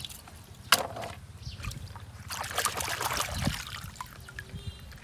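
Water trickling and splashing, with one sharp knock under a second in.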